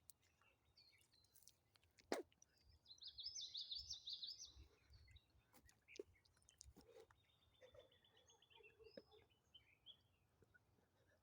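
Faint bird song: a fast trilled phrase about three seconds in and a thinner, evenly repeated trill near eight seconds. Scattered sharp pops from a crackling wood fire, the loudest just after two seconds.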